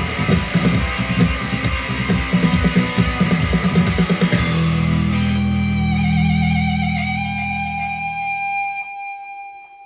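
Rock band playing the instrumental ending of a song: guitars and drum kit until about four seconds in, then a final held chord that rings on and fades away.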